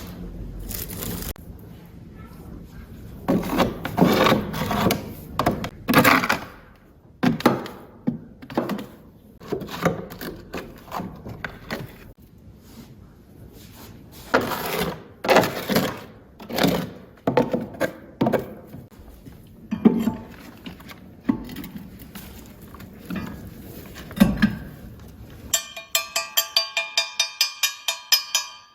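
Irregular scraping, rubbing and knocking of objects being handled. Near the end comes a fast, even run of ringing strikes, about four or five a second, lasting about three seconds.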